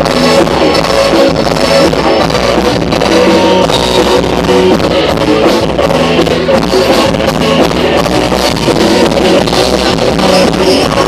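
Loud band music with electric guitar and a drum kit playing a steady beat.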